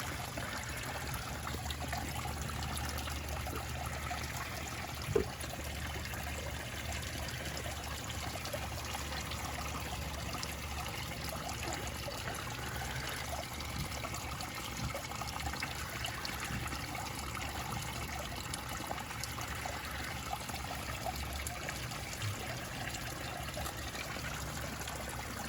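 Small backyard pond waterfall trickling and splashing steadily. One sharp knock about five seconds in.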